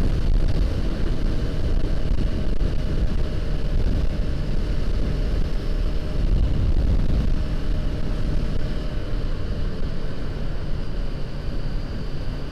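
Honda CBR500R's parallel-twin engine running while riding on the road, under a heavy, steady rumble of wind on the microphone.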